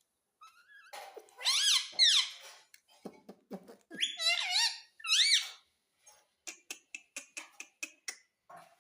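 Ring-necked parrot giving several shrill squawks that rise and fall in pitch, then a quick run of short clicking chirps, about four a second.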